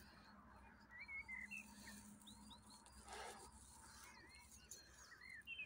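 Faint bird calls: short, curved chirps, in several brief groups, over quiet outdoor background.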